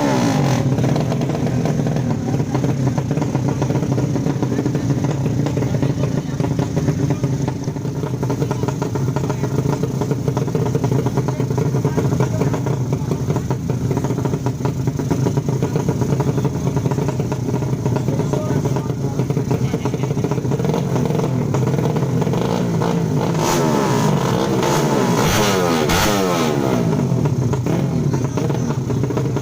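155 cc racing motorcycle engines running steadily, with the revs rising and falling several times near the end.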